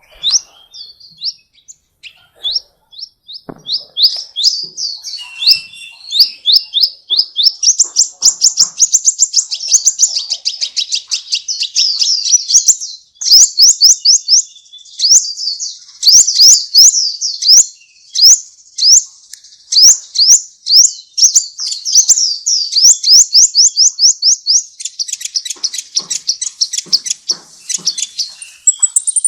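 A songbird singing loudly: long, fast runs of repeated rising whistled notes, with sharp clicking notes mixed in.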